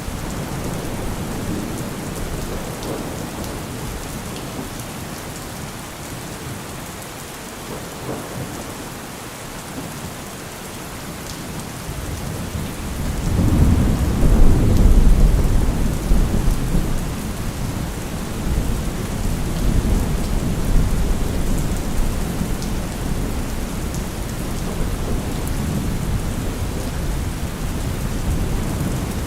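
Heavy rain falling steadily. About halfway through, a deep low rumble swells up, peaks for a few seconds and slowly dies away under the rain.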